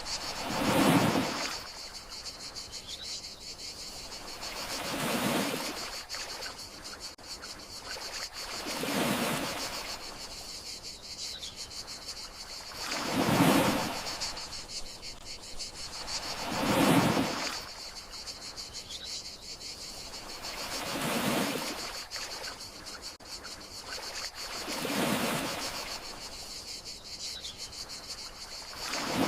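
Gentle sea waves washing in, one swell about every four seconds, over a steady high chirring of crickets.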